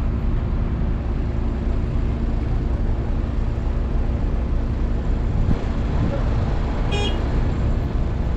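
Heavy diesel engine of a crane running steadily under lifting work, with a constant low drone and hum. About seven seconds in there is one short high-pitched toot.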